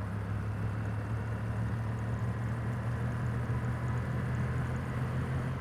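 Kawasaki W800's air-cooled parallel-twin engine running at a steady low hum while cruising at constant throttle, with road and wind noise.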